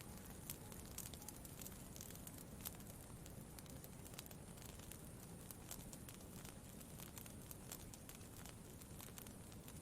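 Quiet campfire crackling, with irregular sharp pops of burning wood over a low steady rumble.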